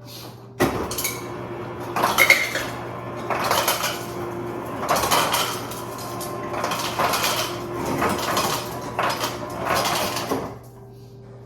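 Dishes and utensils clattering and clinking as kitchenware is handled, in irregular bursts that start about half a second in and stop shortly before the end.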